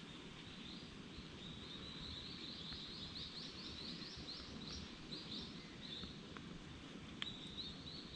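A small bird calling a fast run of short, high chirps, several a second, that grows denser and then breaks off. It starts up again near the end after a single sharp click, over a faint steady outdoor rumble.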